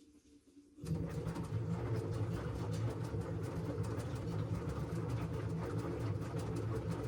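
LG washing machine starting up suddenly about a second in, then running steadily with a low hum and many fast small clicks and splashes.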